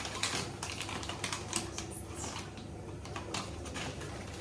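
Toothbrush scrubbing teeth: a run of short, irregular scratchy strokes, several a second.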